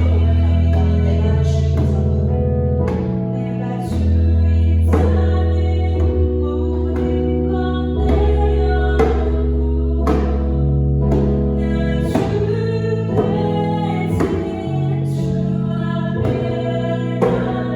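A worship song sung over instrumental accompaniment, with sustained bass notes and djembe hand-drum strikes.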